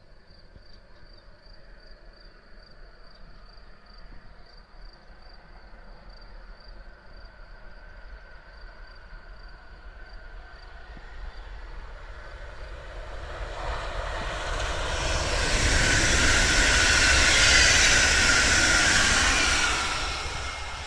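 A Stadler FLIRT3 electric multiple unit approaches and passes at speed. Its rumble and rushing noise build from about halfway, are loudest in the last few seconds, then begin to fade. A faint high pulsing tone sounds in the first half.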